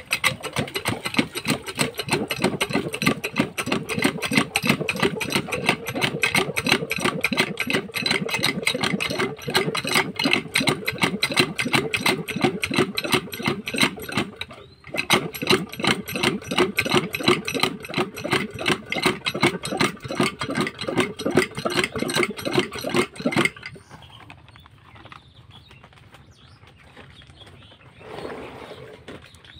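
Field Marshal 8 HP single-cylinder diesel pump engine running with a fast, even knocking beat. It drops out briefly about halfway through, picks up again, then stops about three-quarters of the way in, leaving it much quieter.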